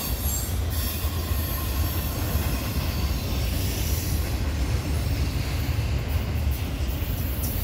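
Double-stack intermodal freight train rolling past at speed: a steady low rumble of the container well cars' steel wheels on the rails, with a high hiss over it and a few light clicks near the end.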